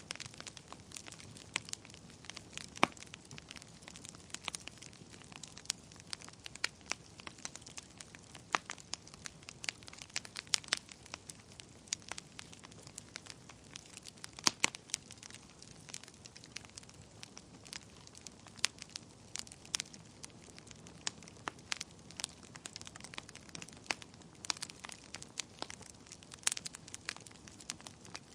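Wood fire burning in a fireplace: irregular sharp crackles and pops of burning logs over a soft steady hiss, with a few louder pops.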